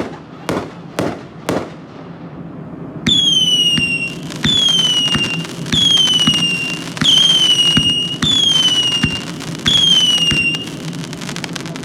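A 500 gram Miracle Fireworks fan cake firing: a few sharp shots, then six whistling shots in a row about 1.4 s apart. Each is a loud, high whistle that dips slightly in pitch and holds for about a second. Near the end comes a run of quick crackling pops.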